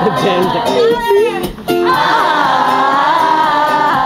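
Live acoustic performance of a pop song: a woman's singing voice holds a long wavering note over steadily repeated accompaniment chords.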